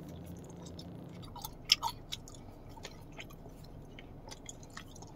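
A person chewing a soft passion-fruit gummy candy, giving scattered wet mouth clicks, with two louder smacks a little under two seconds in.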